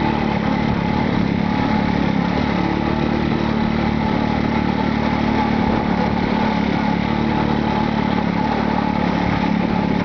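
Motorcycle taxi's engine running steadily under way, heard from on board, with road and wind noise.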